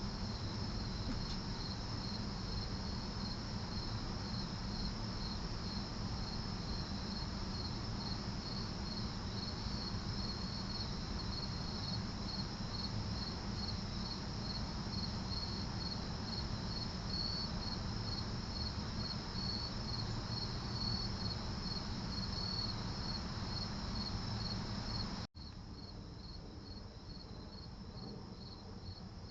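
Crickets chirping steadily: an evenly pulsed high chirp over a low background rumble. A little before the end the sound drops abruptly in level, and the chirping goes on more quietly.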